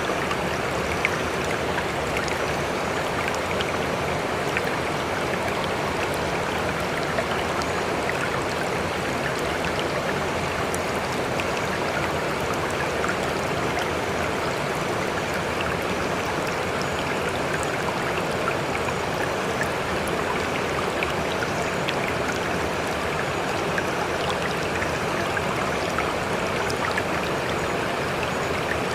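A stream running steadily, an even rushing of flowing water with faint scattered ticks and drips.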